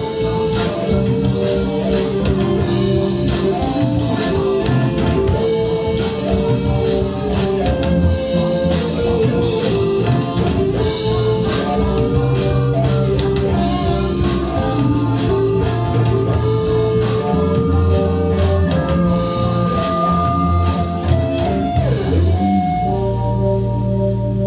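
A rock band playing live: electric guitar, bass guitar and drum kit, shifting to a sustained held chord near the end.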